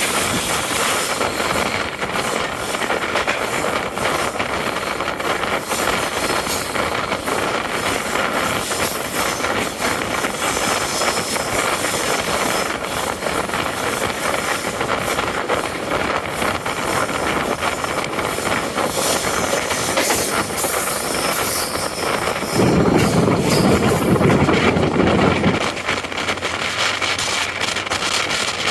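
Passenger express train running on the rails: a steady rushing of wheel and rail noise, with a louder low rumble for about three seconds near the end.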